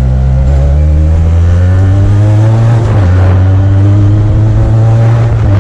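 Benelli TNT 300's 300 cc parallel-twin engine through an aftermarket Yoshimura exhaust, revving up under hard acceleration: the pitch climbs for about three seconds, dips briefly, then climbs again.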